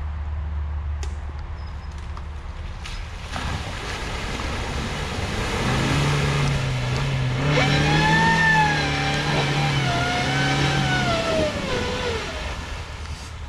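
2019 Suzuki Jimny's 1.5-litre four-cylinder petrol engine revving as the car churns through a boggy mud section with traction and stability control off. The revs climb about three seconds in, rise and fall repeatedly in the middle, and die away near the end.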